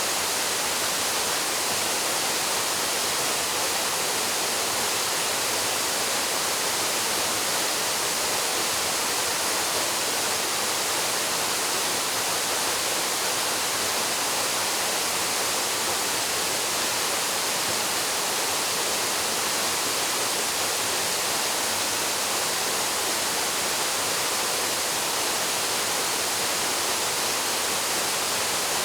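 Waterfall plunging steadily into its pool: a constant, even rush of falling water with no change in level.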